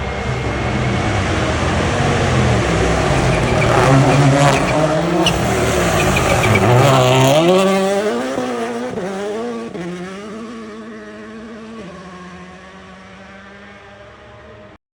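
Rally car driven hard past the spectator point, its engine revving up and down through gear changes, loudest in the middle and then fading into the distance. The sound cuts off suddenly near the end.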